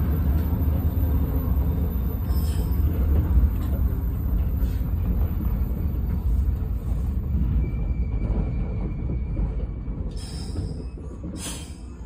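115-series electric train slowing as it pulls into a station, its low rolling rumble fading over the last few seconds. A faint brake squeal comes about eight seconds in, and there are short hisses near the end.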